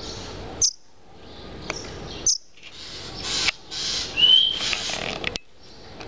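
Indian robin chirping: two short, sharp, high chirps, then a brief whistled note about four seconds in.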